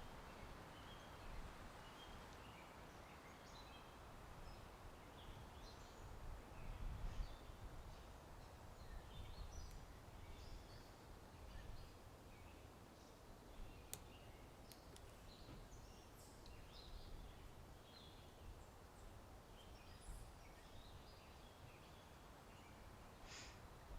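Faint birds chirping, many short scattered calls, over a low steady wind rumble, with a sharp click about fourteen seconds in.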